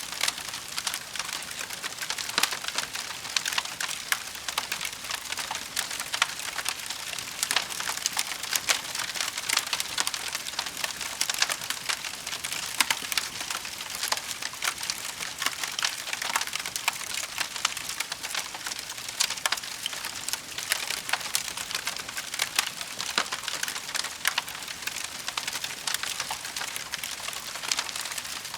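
Wood fire crackling in a fireplace: a steady hiss of fine crackles with frequent sharper pops.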